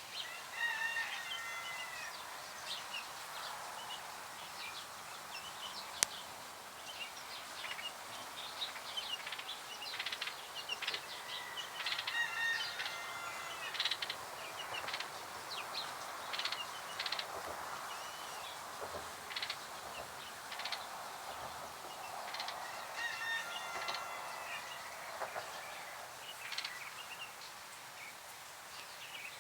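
Several birds chirping and singing, with short repeated calls and trills coming and going throughout. A single sharp click sounds about six seconds in.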